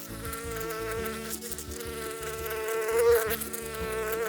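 Flying insect buzzing: one steady, continuous buzz that wavers briefly in pitch about three seconds in.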